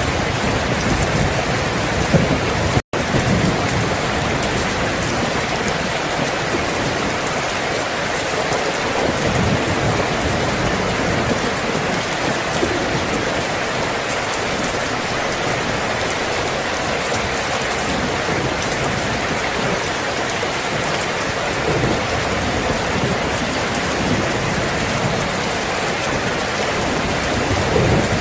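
Steady heavy rain with low rumbles of thunder underneath. The sound cuts out for an instant about three seconds in.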